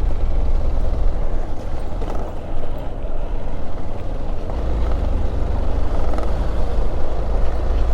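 Motorcycle riding over a short, broken patch of road: heavy wind rush on the microphone over a low engine and road rumble.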